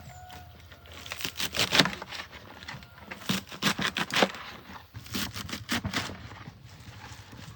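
Irregular rustling, crinkling and scraping, coming in clusters of short bursts.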